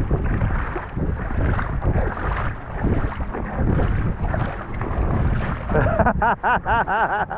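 Wind buffeting the microphone over open water. Near the end comes a quick run of short rising-and-falling vocal notes, a person laughing.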